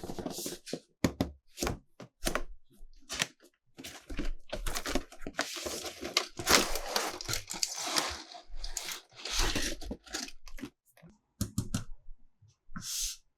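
Toy packaging being opened by hand: a run of sharp clicks and knocks, then a longer stretch of tearing and crinkling from about four seconds in, with more clicks near the end.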